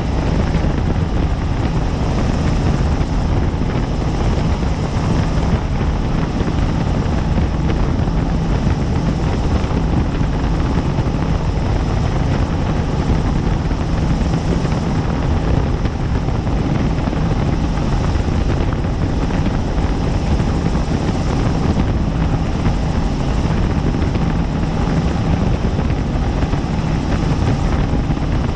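Helicopter in flight: a loud, steady drone of rotor and engine, deepest in the low end, with a faint high whine above it, unchanging throughout.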